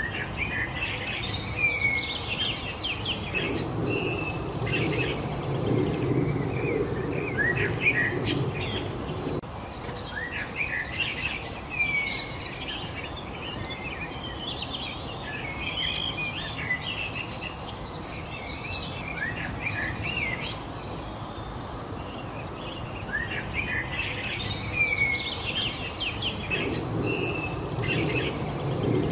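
Several songbirds chirping and singing in bursts of quick, high, sliding notes over a steady background hiss. A low rumble swells for several seconds early on and again near the end.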